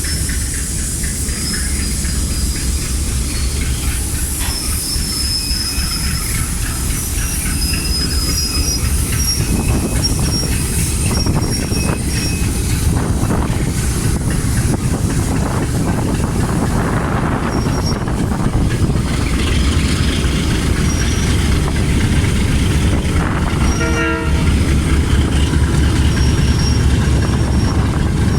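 A train rolling on the rails, loud: a steady low rumble with high, thin squeals from the steel wheels coming and going. A brief pitched toot sounds near the end.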